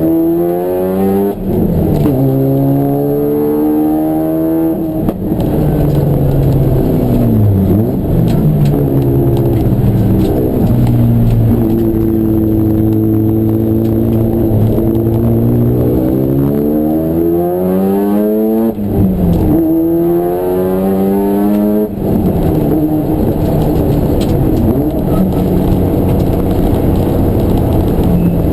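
Race car engine pulling hard through the gears, its pitch climbing and then dropping sharply at each upshift, easing down and holding steady between the pulls.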